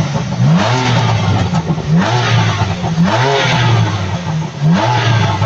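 Car engine revved hard in repeated blips, about four or five times, each one climbing sharply and dropping back to a lower note.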